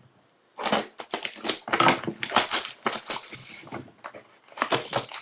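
Trading card pack wrapper being crinkled and torn open by hand: a dense, irregular crackling that pauses briefly near the end and then starts again.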